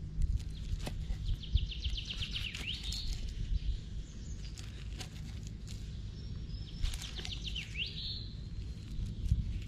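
A songbird singing two phrases a few seconds apart, each a quick run of notes that ends in a rising sweep, over a steady low rumble and a few faint clicks.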